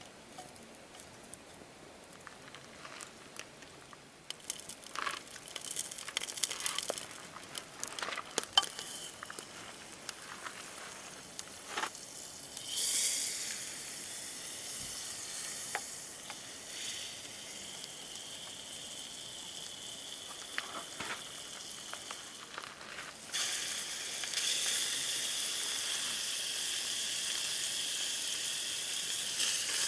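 Scattered light clicks and knocks, then food starts sizzling in hot oil about twelve seconds in, a steady hiss that grows louder again a few seconds before the end.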